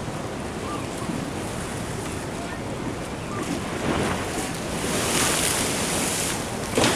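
Ocean surf washing in with wind on the microphone. A wave surges about four seconds in, and a louder hissing wash follows in the second half. A short sharp splash comes near the end.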